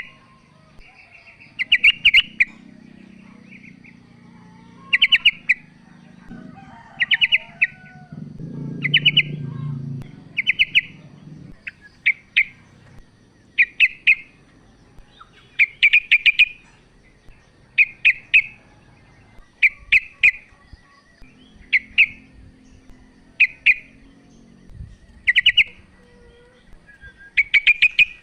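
Female yellow-vented bulbul calling: short bursts of a few quick chirps, repeated about every one and a half to two seconds. This is the female's call to a male, used as a lure to set a quiet male singing.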